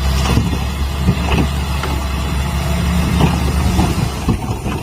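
A steady, low, engine-like rumble with scattered clicks and knocks.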